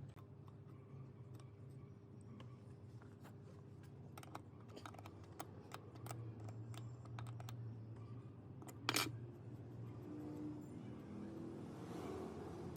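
Irregular light clicks and taps of small hard parts being handled, with one louder knock about nine seconds in, over a low steady hum.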